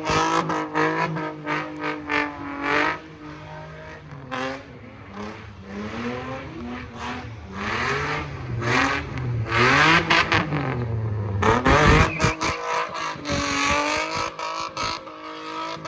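A car engine revving up and down over and over, its pitch swinging repeatedly, loudest about ten to twelve seconds in.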